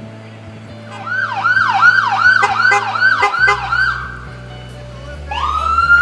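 Police car siren: a fast yelp sweeping up and down about three times a second, starting about a second in and stopping near four seconds, then a wail rising and holding near the end.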